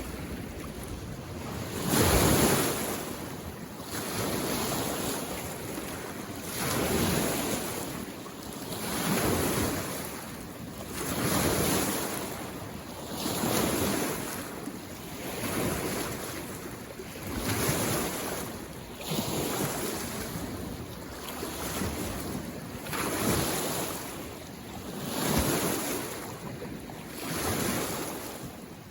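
Small lake waves washing in on the shore, one surge about every two seconds in a steady rhythm, the loudest about two seconds in.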